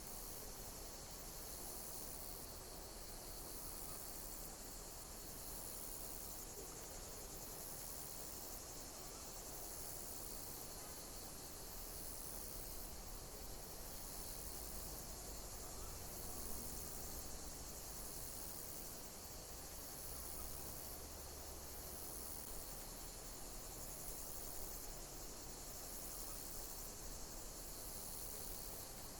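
Insects chirping: a very high-pitched call, slightly falling in pitch, repeating about every two seconds over a steady soft hiss.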